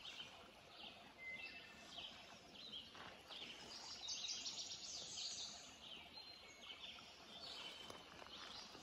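Songbirds singing: faint, quick high chirps and trills from several birds, over a faint steady hiss.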